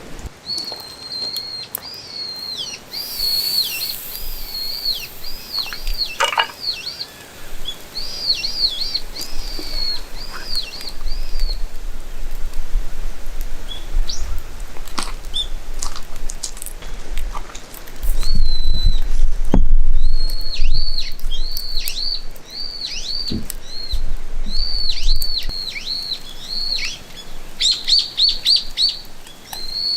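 A small bird chirping over and over in quick runs of short, high notes that each sweep downward, with a brief pause a little past halfway. A low rumble swells under it in the middle and is loudest a little past halfway.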